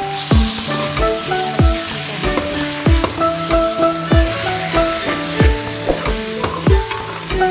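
Chicken pieces frying in oil and masala in a pan, sizzling steadily as they are stirred. Background music with pitched notes and a steady beat plays throughout.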